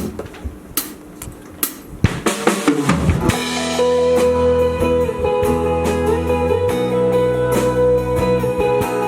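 A live rock band starting a song. A few sharp clicks come first, then a drum fill, and about three seconds in the full band comes in with held bass and guitar notes over the drums.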